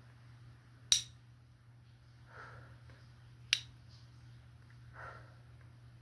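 Two sharp clinks of a hard object tapped on glass or crystal, one about a second in and one about two and a half seconds later, each ringing briefly. Soft swishing sounds fall between them, over a faint steady low hum.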